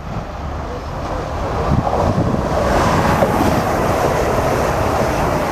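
A non-stopping train passing through the station at speed. Its rumble and rush of air build over the first couple of seconds and then stay loud, with wind buffeting the microphone.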